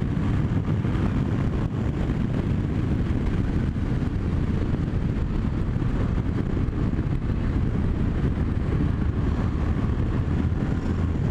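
Yamaha MT-07 Tracer's 689 cc parallel-twin engine running at steady road speed, mixed with wind rush on the helmet microphone.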